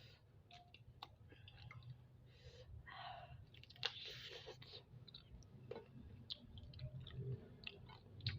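Someone chewing spicy chicken feet close to the microphone, with many small wet clicks and smacks and a few short louder mouth noises.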